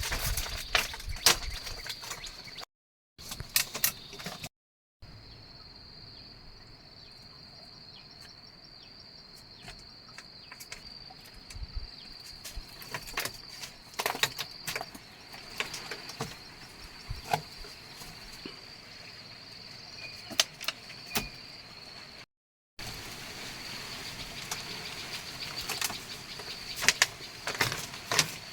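Insects, such as crickets or cicadas, keep up a steady high-pitched drone, with scattered sharp clicks and knocks over it and several brief drops to silence.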